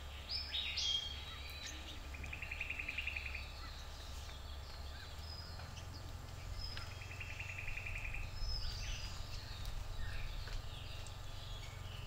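Birds calling: short high whistles and chirps, and twice a fast rattling trill lasting about a second, over a steady low rumble.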